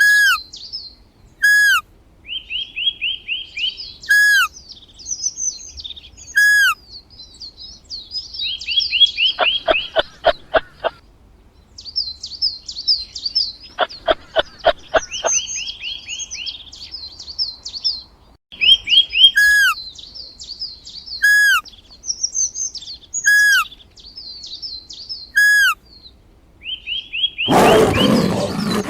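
Birds calling and singing: repeated short whistles that bend downward, fast high trills and chatter, with two brief bursts of rapid rattling pulses. A loud, rough noise cuts in near the end.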